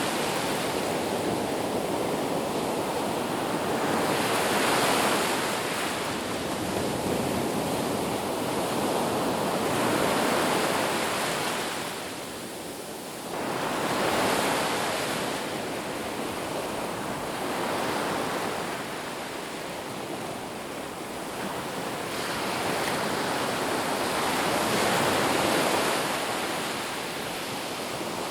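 Ocean surf on a beach: a steady wash of breaking waves that swells and eases every few seconds.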